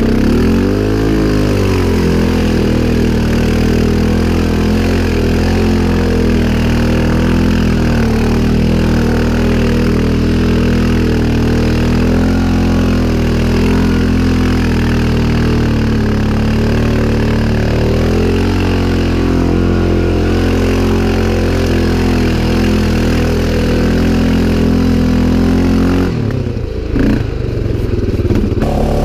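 CFMOTO 500 ATV's single-cylinder engine running under throttle at fairly steady revs, its pitch dipping and picking up again about a second in and once more midway. Near the end the engine note breaks off briefly, then comes back.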